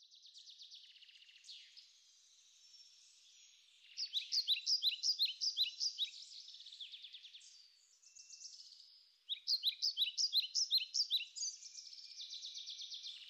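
Songbirds singing: two runs of quick repeated chirps at about five a second, one about four seconds in and another about nine seconds in, over a faint steady high trill.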